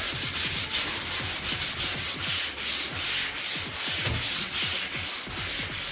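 Sandpaper rubbing by hand over bare oak trim, in quick, even back-and-forth strokes of about four a second.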